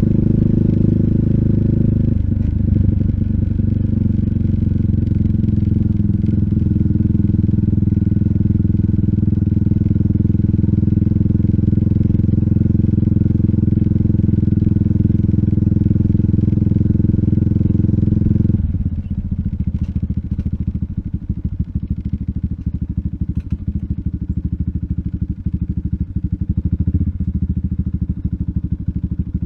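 RUSI Classic 250Fi's single-cylinder engine running steadily through an aftermarket full exhaust with a bullet-pipe slip-on and dB killer. About two-thirds of the way through, the revs drop and it settles to a quieter idle with a distinct beat of separate exhaust pulses.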